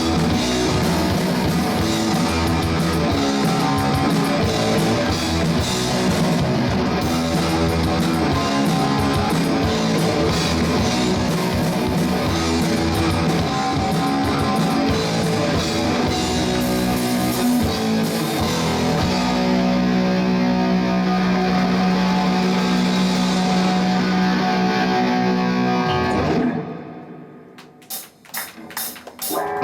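Rock band playing live with distorted electric guitar and drums; near the end the music cuts off, followed by a few sharp hits.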